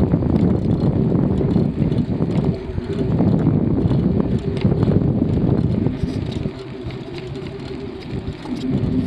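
Bicycle in motion, its tyres rolling along the path, with wind buffeting the microphone; the rumble eases a little about six seconds in.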